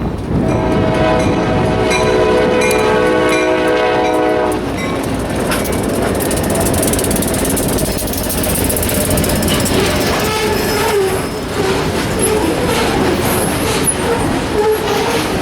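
Diesel locomotive's multi-tone air horn sounding one long blast of about four seconds. Then the freight train runs past with steady wheel and rail rumble, and wavering wheel squeal in the last few seconds.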